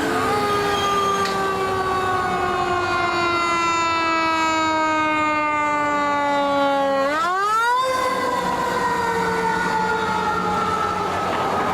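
A fire engine's siren winds slowly down in pitch for about seven seconds, is spun back up to a high pitch in about a second, then begins falling again. The slow coast-down and quick wind-up are typical of a mechanical Federal Q2B-type siren.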